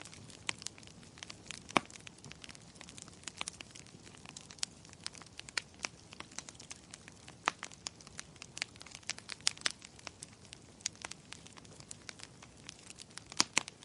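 Wood fire crackling in a fireplace: irregular sharp pops and snaps over a soft steady hiss, with a louder pop about two seconds in and a quick cluster of pops near the end.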